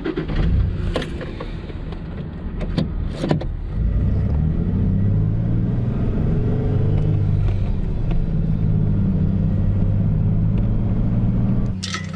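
Toyota Tacoma pickup truck's engine running as the truck drives off, with a few sharp clicks and knocks in the first few seconds. The engine gets louder about four seconds in, runs steadily, then drops back near the end.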